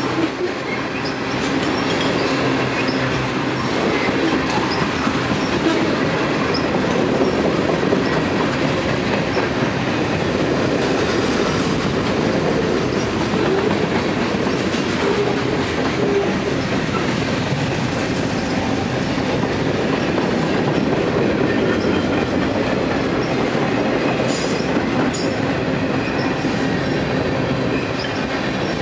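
Freight cars rolling past: the steady rumble and clatter of steel wheels on rail. A thin high wheel squeal sounds in the first few seconds, and a few sharp clanks come late on.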